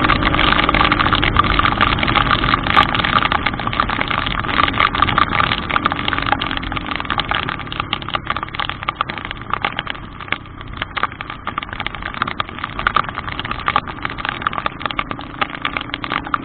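Car running in heavy rain, its engine hum under a dense crackle of rain and water. The sound eases off somewhat around the middle.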